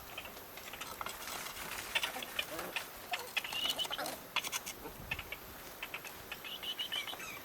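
Puppies whimpering and squeaking in short, high, wavering calls over scattered light taps and clicks.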